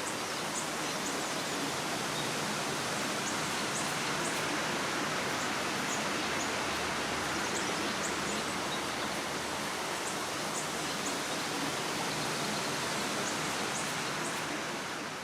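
Steady rushing of a flowing creek, with short high chirps scattered through it. It fades out at the very end.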